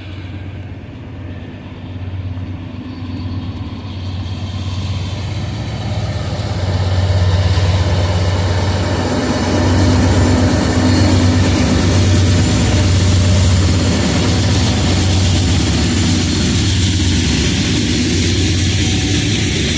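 Freight train of oil tank cars hauled by diesel locomotives, the locomotives' low engine drone growing louder over the first several seconds as they come up and then running steadily past, with steady rain hiss.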